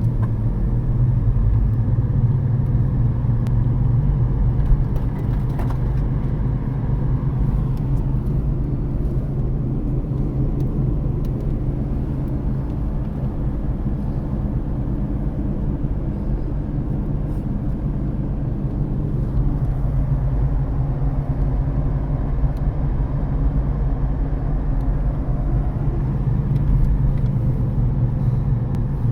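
1999 Jeep Cherokee XJ Sport's 4.0-litre inline-six running through a Dynomax Super Turbo cat-back exhaust, heard from inside the cabin while cruising at a steady speed. A steady low exhaust drone, relatively mild, under road and tyre noise.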